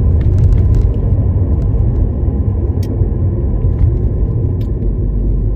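Steady low rumble of a car driving, heard from inside the cabin: engine and road noise, with two faint clicks partway through.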